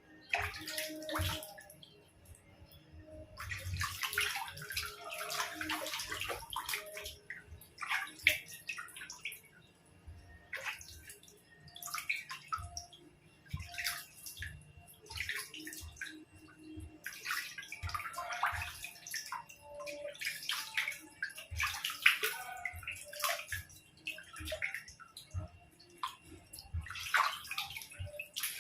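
Water splashing and pouring in repeated irregular bursts as a puppy is washed.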